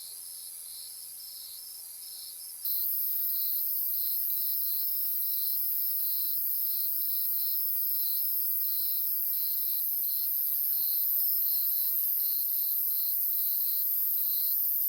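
Crickets chirping in an even rhythm of about two chirps a second, over a steady high insect hiss that gets louder about three seconds in.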